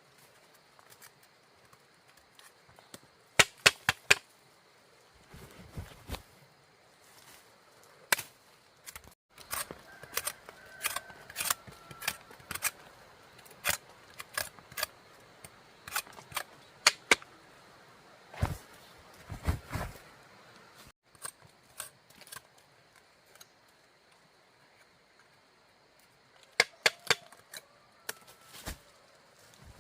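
A series of sharp, irregular clicks and knocks, some in quick clusters of two or three, with a quiet gap of a few seconds near the end.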